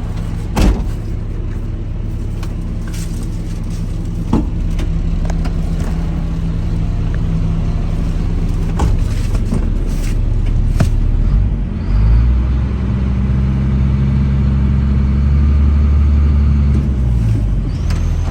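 Caterpillar diesel engine of a 2004 GMC truck running steadily, heard from inside the cab, with two sharp clicks in the first few seconds. About twelve seconds in, the engine speed rises and holds higher and louder, then drops back near the end.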